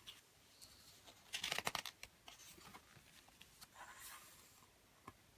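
Faint paper handling, typical of a page of a picture book being turned: a quick run of crisp clicks about a second and a half in, then a soft rustle near the end.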